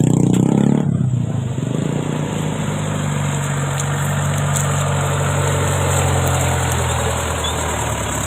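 A vehicle engine running: louder for about the first second, then settling into a steady low hum.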